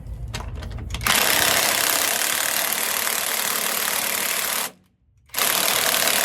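Impact wrench hammering in a long burst of about three and a half seconds, stopping briefly, then starting again near the end.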